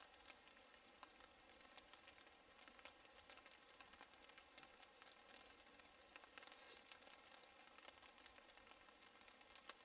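Near silence: a faint, fine crackling throughout, with two short soft hisses a little past the middle.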